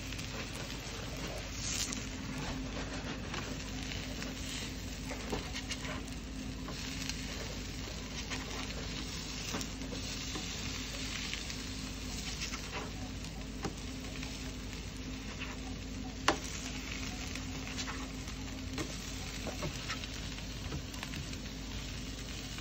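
Banana peel strips sizzling steadily as they fry on an electric griddle, with light scrapes and taps of a spatula turning them over, and one sharper click about two-thirds of the way through.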